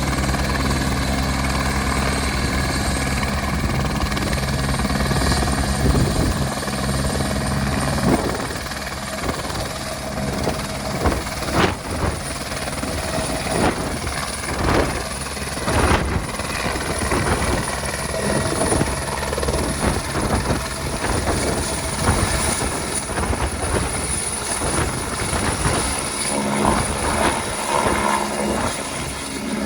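Helicopter rotor and turbine engine running. For about the first eight seconds there is a steady low rotor beat, then the low beat fades and the sound turns uneven and gusty.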